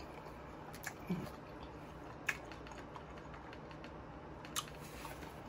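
A person chewing a mouthful of chicken sandwich with the mouth closed: a few scattered, sharp wet clicks and smacks over faint room hum.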